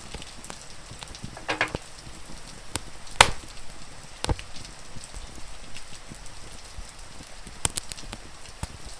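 Wood fire crackling, with scattered sharp pops, the loudest about three seconds in, over a steady hiss of rain.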